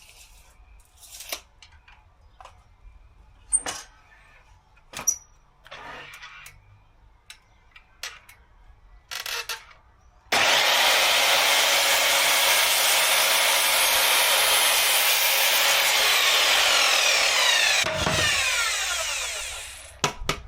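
Electric power saw cutting wood: it starts abruptly about halfway through, runs steadily and loudly for about seven seconds, then winds down with a falling whine. Before it, scattered light knocks and clicks of wood being handled.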